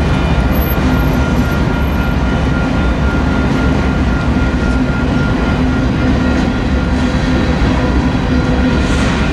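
A manifest freight train's cars, autoracks then covered hoppers, rolling past close by. There is a steady, loud rumble and rattle of wheels on rail, with a thin steady whine running over it.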